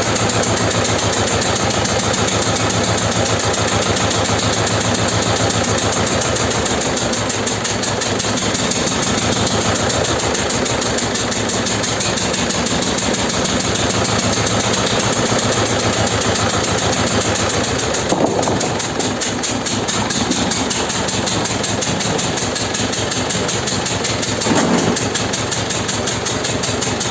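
Vladimirets T-25 tractor's two-cylinder air-cooled diesel running steadily on a cold start after sitting through the winter. Its note shifts about 18 seconds in.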